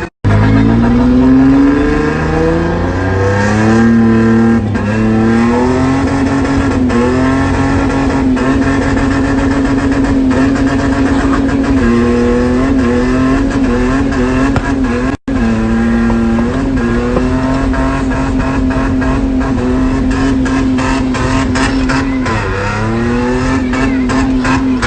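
Car engine held at high revs, climbing and dipping as the throttle is worked, during drifting on a wet road. The sound breaks off abruptly twice, just after the start and about fifteen seconds in.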